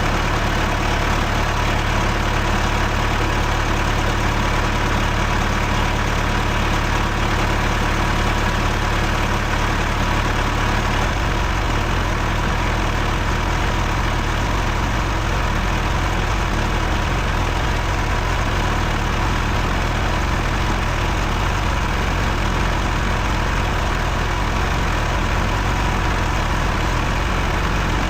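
John Deere tractor engine running steadily under load while towing another tractor.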